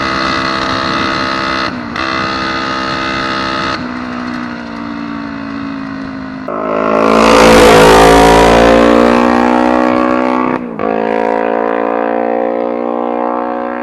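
Motorcycle engine of a homemade Ninja-powered dirt bike running hard at high revs under way, with short breaks in the sound at gear changes about two seconds in and near eleven seconds. From about six and a half seconds it gets much louder, with a rush of noise over the engine as the revs climb. The engine, jetted with 115 main jets, is running well and pulling cleanly.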